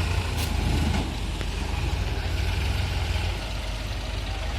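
Heavy diesel engine running steadily at a low, even rumble, a little louder in the first second and then settling.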